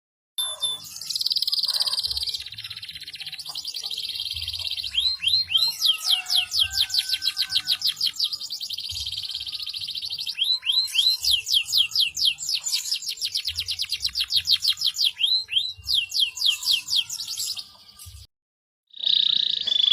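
Domestic canary singing: fast rolling trills of repeated high down-sweeping notes, about ten a second, with short breaks between phrases. The song breaks off shortly before the end.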